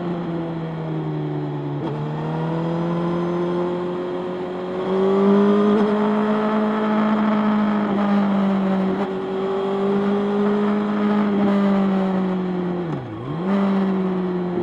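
Motorcycle engine running under way at a steady pace, its pitch drifting gently up and down. About thirteen seconds in there is a quick drop in pitch that recovers at once.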